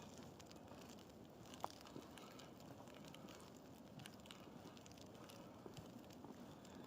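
Near silence in a snowy forest: faint scattered ticks and crackles over a low hiss, with one sharper click under two seconds in.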